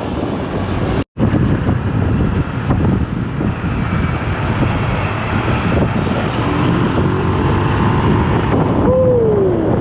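Steady road traffic noise: vehicles running along a street, a continuous rushing sound, broken by a sudden brief dropout about a second in.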